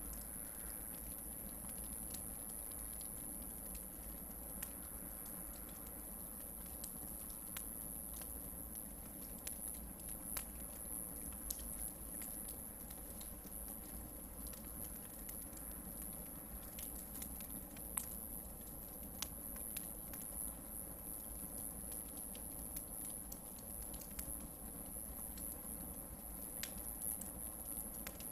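Hardwood campfire burning, with scattered sharp crackles and pops over a soft steady rustle; one pop about two-thirds of the way in is the loudest. A steady high-pitched tone sits in the background.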